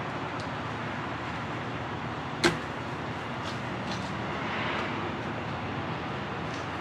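Steady vehicle noise, with one sharp click about two and a half seconds in and a few faint ticks.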